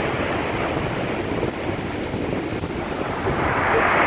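Heavy storm surf on the Black Sea, a continuous rush of breaking waves with wind buffeting the microphone; the surge swells louder near the end.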